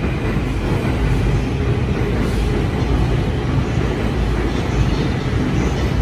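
Steady low rumble of train noise at a railway station platform, even throughout with no distinct clanks or squeals.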